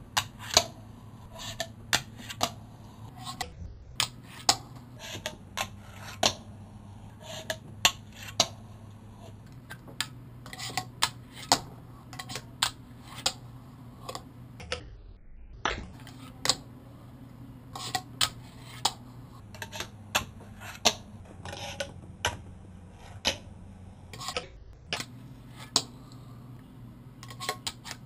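Fingerboard clacking: sharp pops and landings of a wooden fingerboard deck on hard surfaces, singly and in quick pairs, over a low steady hum. The sound drops out briefly a few times.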